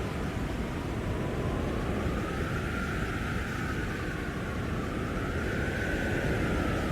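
Blizzard wind blowing hard and steadily: a rushing noise with a howling whistle that slowly wavers up and down in pitch.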